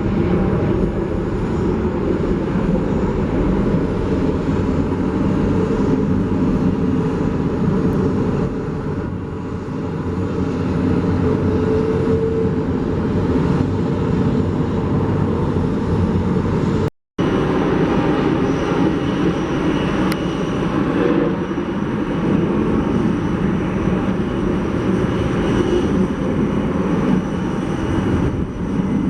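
Airliner jet engines heard at close range: a loud, steady, deep rush of noise. It cuts out for an instant about seventeen seconds in, then a similar jet noise carries on.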